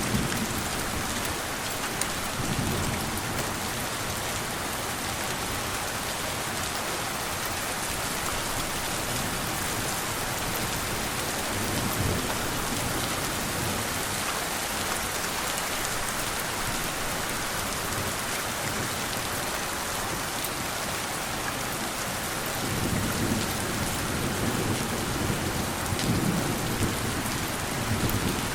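Steady rain falling, with soft rumbles of distant thunder rolling low a few times, the longest near the end.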